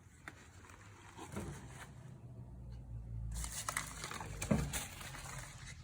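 Hands handling a coir-covered cardboard cone, with faint rustling and scattered small clicks and knocks, and a louder knock about four and a half seconds in.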